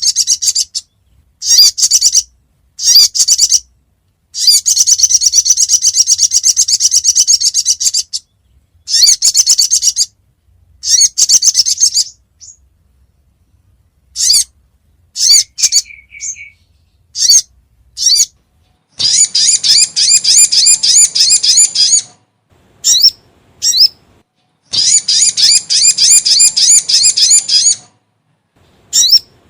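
Sogon (sogok ontong) bird calling: bursts of rapid, high-pitched trilled chirps, each lasting one to four seconds, separated by short pauses, with a run of shorter single chirps around the middle. This is a lure recording used to draw wild sogon birds in.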